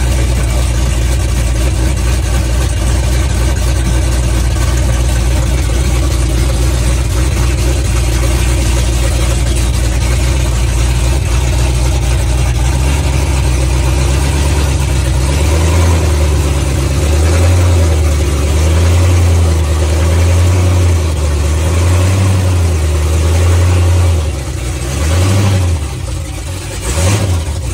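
427 LSX V8 engine running loud: a steady deep rumble for about the first half, then the engine note rising and falling again and again with the throttle, dropping off a couple of times near the end.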